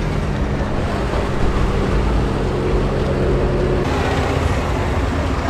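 A vehicle engine runs steadily under heavy road and wind noise. The sound changes abruptly about four seconds in.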